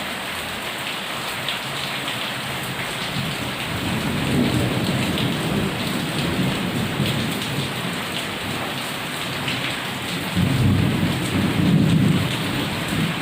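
Heavy rain falling steadily, with thunder rumbling low under it: one roll swells about four seconds in, and a louder one comes from about ten seconds in.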